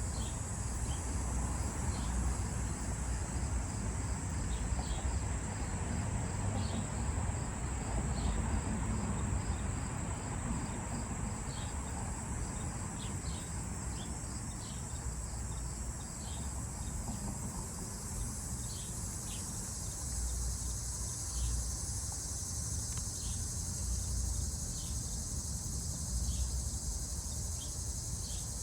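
Steady high-pitched chorus of crickets and other insects, with short high chirps recurring irregularly and coming more often in the second half, over a low rumble.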